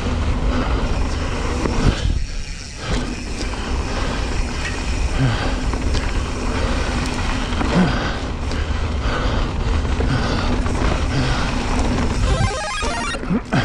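Mountain bike rolling fast down a dry dirt trail: tyres rumbling and crunching over gravel, the frame and drivetrain rattling over bumps, and wind buffeting the microphone. A brief rapid ticking comes shortly before the end as the bike approaches a jump.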